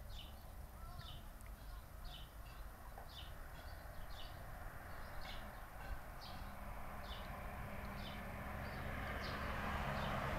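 A bird chirping a short high call over and over, about once a second, over a steady background hiss that grows louder near the end.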